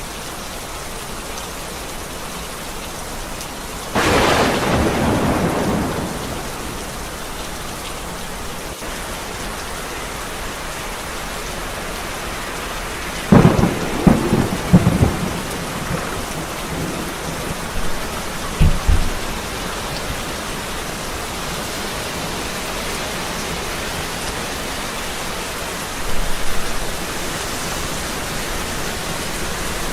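Steady rain falling, with thunder. A clap about four seconds in rolls on for a couple of seconds. A cluster of sharp cracks comes in the middle, a short low rumble soon after, and a smaller clap near the end.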